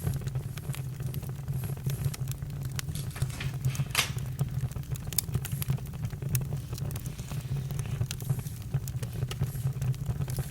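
Campfire crackling with irregular sharp pops over a steady low rumble, one louder pop about four seconds in.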